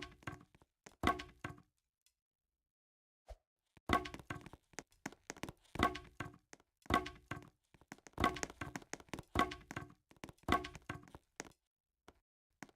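A series of sharp knocks or thuds, roughly one a second, each ringing briefly at the same pitch. They stop for about two seconds near the start, then go on until they die away towards the end.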